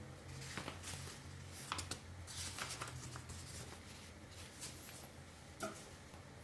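Faint rustling and scattered light clicks from handling packaging and parts during an unboxing, over a low steady hum.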